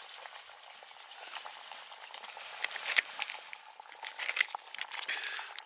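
Food sizzling and simmering in a pan over a campfire, a steady hiss with scattered sharp crackles and clicks that grow louder and more frequent in the second half.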